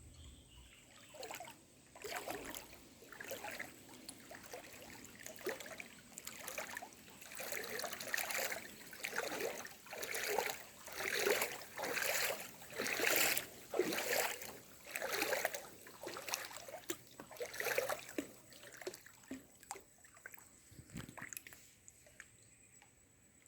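Water splashing in a run of repeated splashes, about one or two a second, growing louder towards the middle and then fading away.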